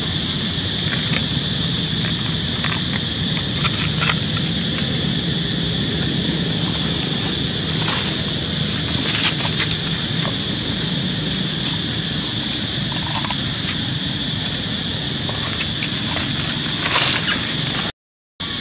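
Steady outdoor ambience: a continuous high-pitched drone with scattered light crackles and clicks. The sound cuts out completely for a moment near the end.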